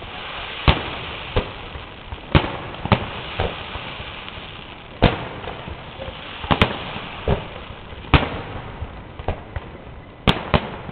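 Fireworks display: aerial shells bursting in sharp bangs at irregular intervals, about eight in ten seconds, over a steady background noise.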